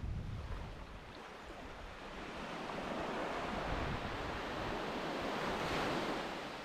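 Sea surf: a wave swells and washes in, building to a peak near the end before easing. Wind rumbles on the microphone in the first half second.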